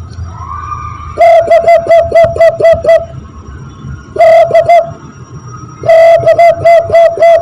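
Zebra dove (perkutut) call imitated by blowing into cupped hands: runs of quick, evenly repeated coos. A run of about eight notes, a short one of three, then another of about seven, with brief pauses between.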